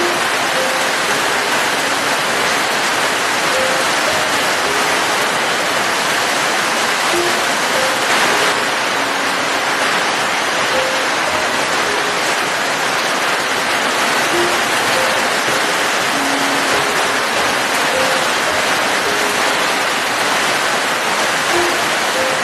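Steady rain, an even hiss, with soft relaxing music underneath: sparse short notes, about one a second.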